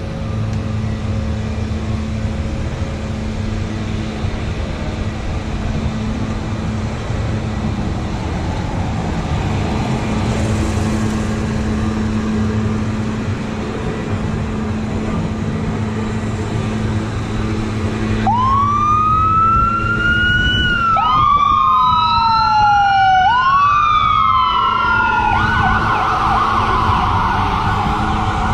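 Steady road and engine noise, then about two-thirds of the way in a fire department ambulance's siren starts up on its way to a call. It wails up and down slowly a few times, then switches to a fast yelp near the end.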